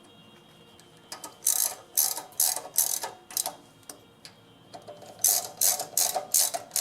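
Socket ratchet clicking in short back-and-forth strokes, two runs of about half a dozen each, as the ignition coil's mounting bolts are tightened with the air gap set against the flywheel magnet.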